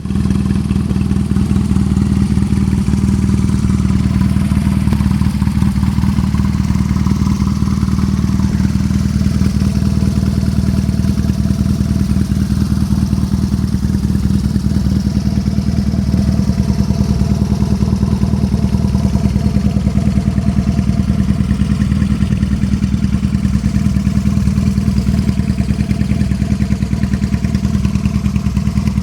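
Custom BMW R nineT's boxer twin engine, straight-piped, running loud and steady at a constant speed with no revving.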